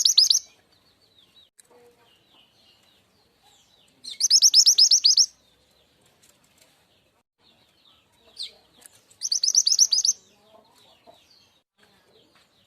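Mountain mantenan (truntung weru) song used as a bird-trapping lure call. Two loud, fast, high trills of rapidly repeated notes, each about a second long and about five seconds apart, with faint scattered chirps between them.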